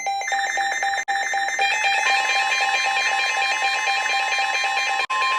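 NOAA Weather Radio alert signal: rapid pulsing digital data tones, then a steady high alert tone comes in about two seconds in and holds, announcing a new warning.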